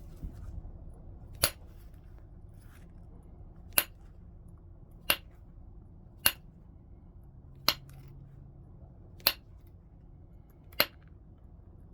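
Flintknapping: a knapping tool strikes the edge of a stone point seven times, one sharp click every second or so as flakes come off.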